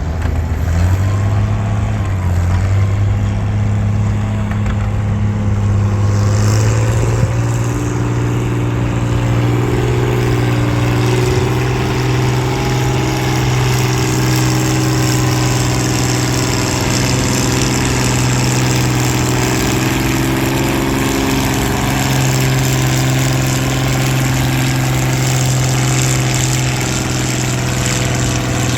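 Two-cylinder tractor engine pulling a weighted sled under load. Its speed rises about six seconds in, then it runs steadily while working.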